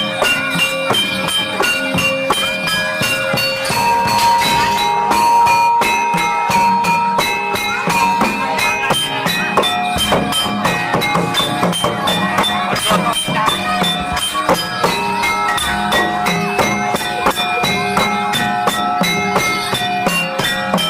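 Jathilan gamelan music: struck metallophones play a steady pattern of pitched notes over quick drumming and jingling bells. About four seconds in, a long high note is held for several seconds.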